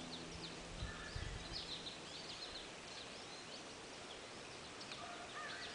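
Small birds chirping, many short high calls in quick succession, over a faint outdoor hiss, with a couple of low bumps about a second in.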